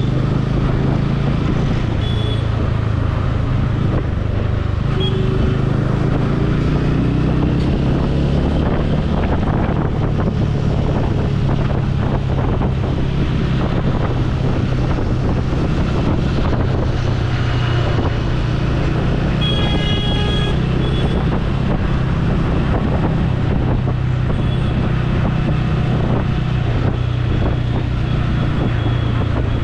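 Motorcycle engine running steadily on the road, with wind buffeting the helmet microphone and traffic around. A vehicle horn sounds for about a second roughly two-thirds of the way through.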